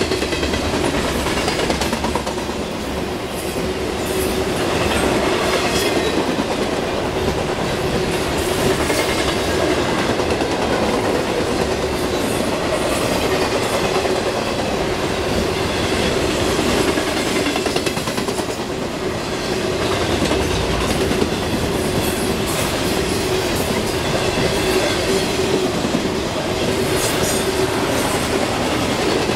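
Freight train cars rolling steadily past a grade crossing, their wheels clattering over the rail joints, with a steady tone held underneath.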